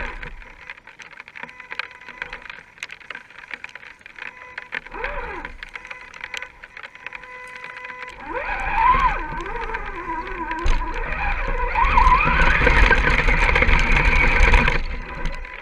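Scale RC crawler's electric motor and gear drivetrain whining, the pitch rising and falling as the throttle is worked, louder from about halfway through. Scattered sharp ticks run throughout.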